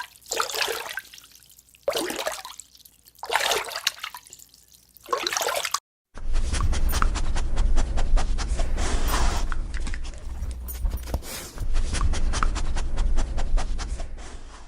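A dog huffing out four loud, breathy bursts about a second and a half apart. After a cut, a dog laps water, with many rapid wet clicks over a low rumble.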